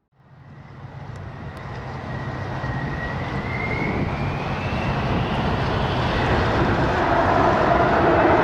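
Jet aircraft engine roar fading in and growing steadily louder, as the aircraft approaches. A thin whine rises slightly in pitch about halfway through.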